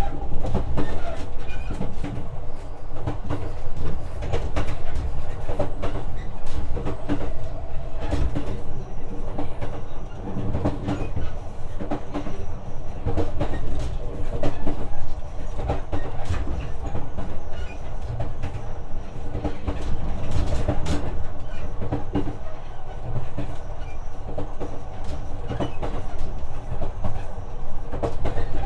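JR West 125 series electric train running, heard from inside the car: a steady low rumble of the wheels on the rails, with repeated clicks over rail joints and a steady hum underneath.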